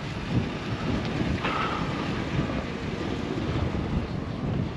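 Steady low wind rumble on the microphone, with a faint brief knock or squeak about a second and a half in.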